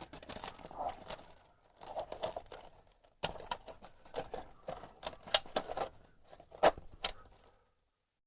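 The metal plates of a folding fire bowl and a heavy canvas pouch being handled. Fabric rustles and scrapes in several bouts, broken by sharp metallic clicks and clinks, the loudest a few ticks in the second half.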